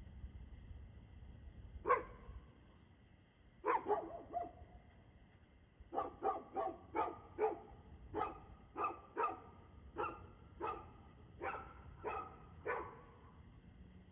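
A dog barking: one bark, a quick cluster of three or four, then a steady run of about a dozen barks, roughly one every half second or so.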